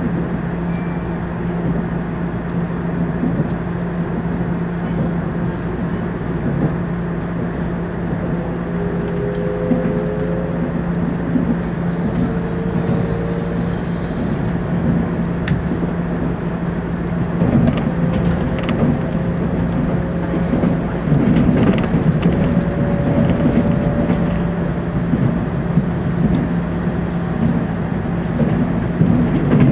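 Interior running noise of a TEMU2000 Puyuma electric train at speed: a steady low hum with wheel and rail rumble. A faint whine rises slowly in pitch from about ten seconds in, and the rumble grows rougher past the middle.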